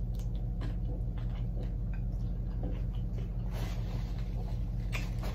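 Close-up chewing of a crispy fried chicken wing: irregular crunches and wet mouth clicks over a steady low hum. A paper napkin rustles against the mouth about three and a half seconds in.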